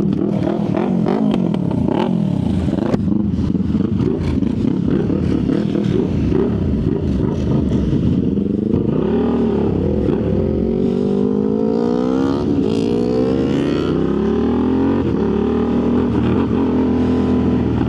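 Motorcycle engines on a group ride, more than one engine audible, revving up and down so their pitch keeps rising and falling through the gears, over a steady rumble of wind and road noise.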